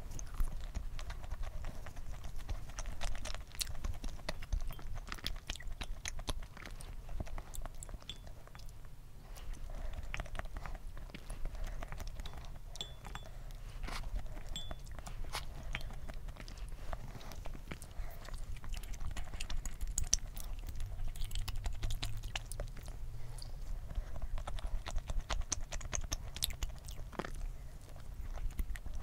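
Close-miked chewing of soft, chewy rice cake and canned mango pieces, with wet mouth sounds and many small irregular clicks.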